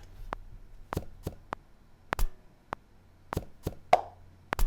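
Playback of a sparse rhythm built from sampled found sounds: a string of sharp knocks and taps, with a deep thud from a tuned-down kick-drum sample at the start and again about two seconds in, and a short ringing hit near the end.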